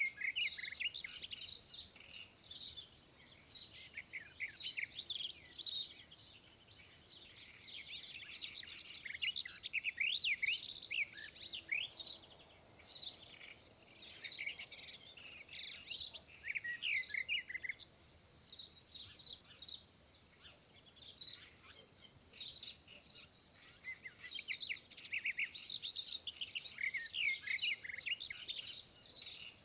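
Birds chirping and twittering: many quick, overlapping high chirps that come in busy bursts, with a quieter spell about two-thirds of the way through.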